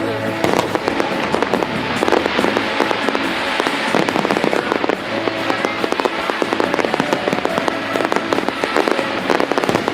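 Fireworks display: a dense, rapid crackling of firework effects going off continuously, with music playing underneath.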